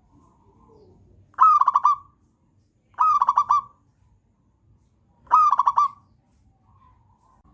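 Zebra dove singing: three short phrases about a second and a half to two seconds apart, each opening on a note that rises and falls, then running straight into a quick series of about four notes.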